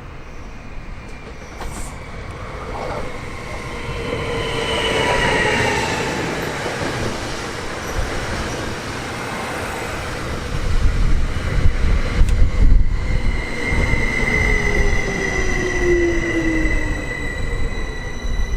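A train passing, its noise building up: tones that glide down in pitch, then a heavy rumble of the cars from about halfway through, with a steady high wheel squeal over it in the last third.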